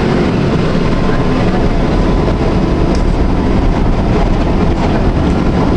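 Tram running along its line: a steady rumble of the car and its wheels on the rails.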